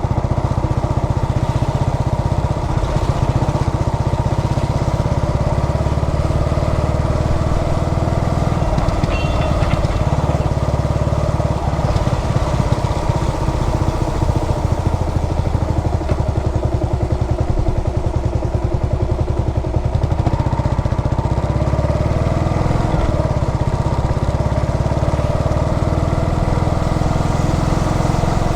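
Carbureted Yamaha SR400's air-cooled single-cylinder four-stroke engine running steadily under way, a rapid even beat of firing pulses with slight rises and falls in engine speed.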